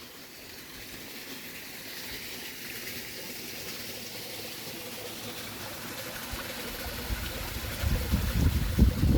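Running water, a steady rushing hiss that grows gradually louder. Irregular low rumbling in the last two seconds or so is the loudest part.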